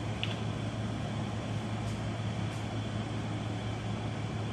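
Steady low electrical or mechanical hum of room background noise, with a brief faint high chirp shortly after the start.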